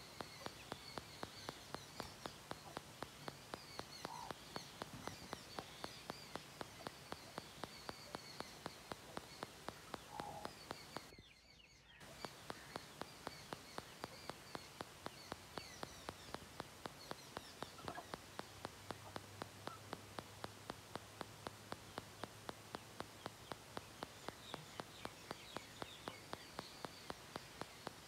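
Faint scattered chirping of small birds over a steady hiss, with a regular ticking about three times a second and a brief dropout about eleven seconds in.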